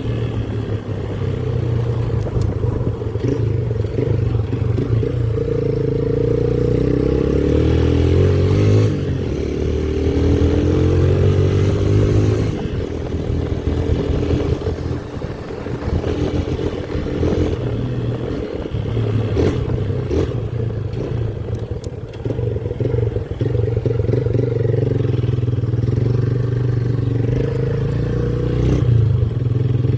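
Motorcycle engine running while being ridden, its pitch rising and falling with throttle and speed changes.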